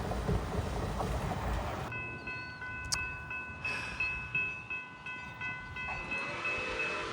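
A train rumbling past with wheel and rail noise. After about two seconds this switches abruptly to a railroad grade-crossing bell ringing at an even beat, with steady high ringing tones.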